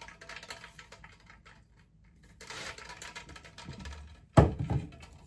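Light clicking and rustling of small objects being handled, then a single sharp thump about four and a half seconds in.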